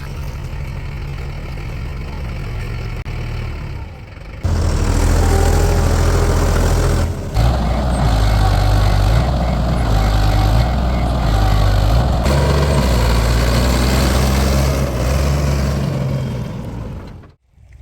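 Heavy diesel engine running, turning much louder and deeper about four and a half seconds in, with a brief dip a few seconds later, then cutting off abruptly near the end.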